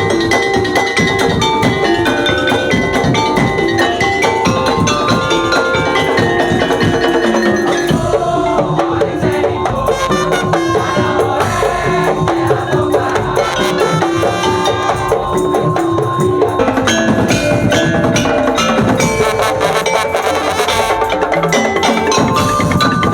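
Percussion-led music: wood blocks and tuned mallet percussion play a dense, busy rhythm of short struck notes over steady sustained tones.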